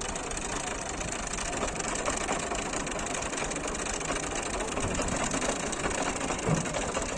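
A heavy vehicle's engine running steadily with a dense mechanical clatter.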